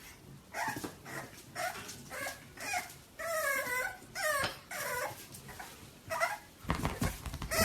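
A dog whining in a string of short, high whimpers, with one longer wavering whine about three seconds in. Near the end come a few louder thuds.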